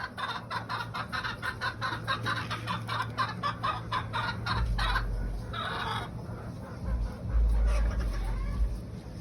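Game birds clucking in a rapid, even run of short calls, about five a second, for the first five seconds, then only scattered calls. From about halfway a low rumble comes and goes, loudest near the end.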